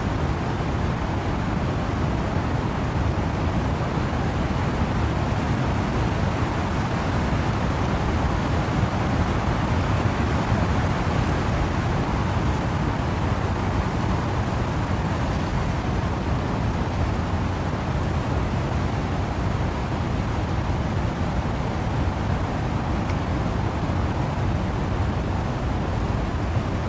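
Wind and rain in trees: a steady rushing noise with a heavy low rumble, with no single gusts or drops standing out.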